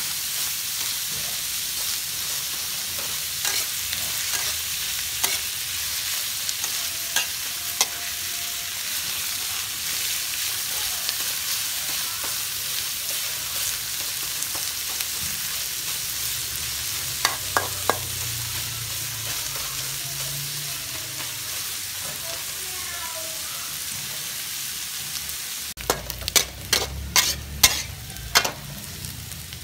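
Sliced ginger sizzling in hot oil in a steel wok, stirred with a metal spatula that scrapes and clicks against the pan. Near the end the sizzle drops and a quick run of sharp spatula knocks on the wok follows.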